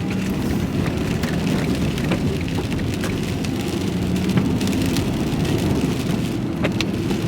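Steady low engine and road rumble inside a moving truck's cab, with scattered sharp ticks of raindrops hitting the cab.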